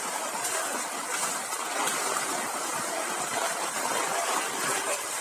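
Steady rushing and splashing of floodwater, with no distinct strokes or pauses.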